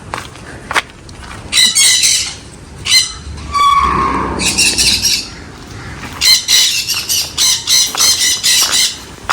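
Caged parrots squawking: short, harsh, shrill calls, a few scattered at first and then a rapid string of them over the last few seconds.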